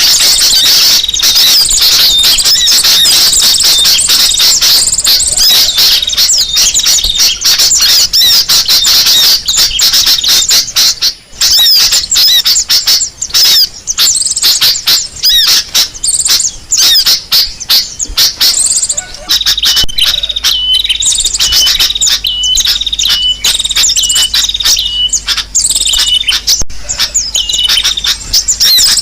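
Small birds chirping and twittering continuously, high-pitched and rapid: a bird-lure call track of sogok ontong sunbird calls mixed with sooty-headed bulbul (kutilang) calls. From about two-thirds of the way in, a short note repeats about once a second under the chatter.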